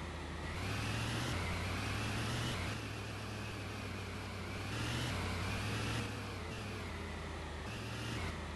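Car on the move: a steady low rumble with a faint whine that slowly rises and falls in pitch.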